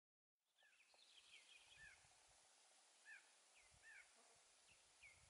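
Faint chirps of small birds: short up-and-down notes, many in a quick cluster about a second in, then scattered single ones, over a steady hiss with a few low rumbles. The sound starts about half a second in, after silence.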